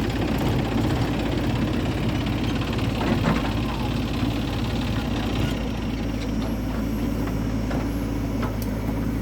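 Heavy diesel engine running steadily, with a few light knocks about three seconds in.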